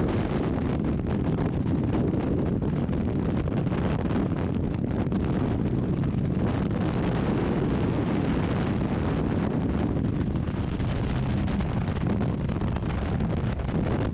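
Steady, loud wind buffeting the microphone, a constant rumbling rush with no breaks.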